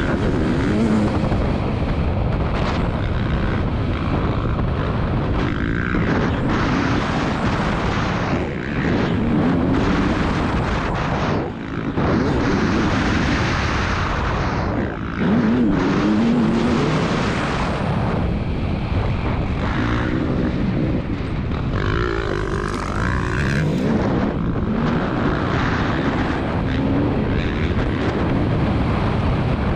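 2022 KTM 300 TPI two-stroke motocross engine under hard riding, its pitch rising and falling repeatedly with the throttle and gear changes. The throttle is briefly chopped twice, about midway through.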